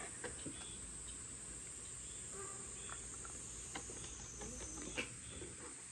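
Steady high-pitched chorus of insects chirring in the forest, with a few faint clicks.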